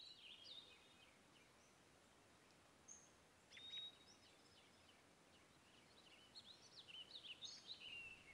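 Faint birds chirping: short, quick calls that rise and fall, scattered throughout over a quiet background hiss, with a slightly longer call about three and a half seconds in.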